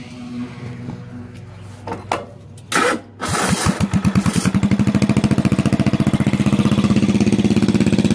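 Bolens lawn tractor's single-cylinder engine cranked over and catching about three seconds in. It picks up speed and then runs steadily with fast, even exhaust pulses through a bare 90-degree elbow pipe fitted in place of the muffler.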